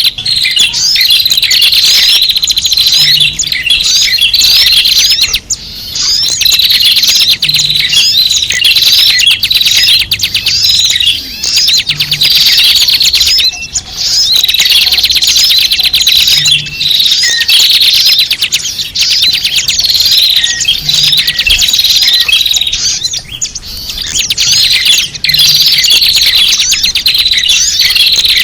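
A dense, loud chatter of many small birds: rapid overlapping high chirps and trills, unbroken throughout. It is a bird-lure (pikat) recording of noisy small birds, made to draw wild small birds in.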